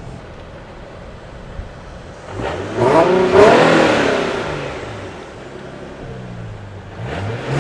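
Twin-turbo Nissan 370Z Nismo's 3.7-litre VQ37 V6 idling, then blipped once about two and a half seconds in, its pitch rising and falling back to idle, through an Armytrix valved exhaust switched open. A second rev starts near the end.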